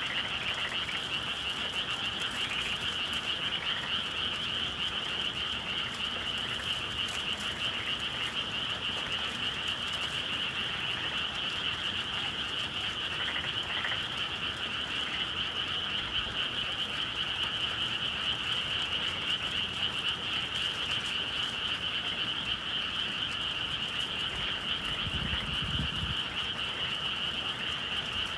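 A dense, steady chorus of many frogs calling together without a break, on a spring evening in the countryside. Near the end there is a brief low rumble.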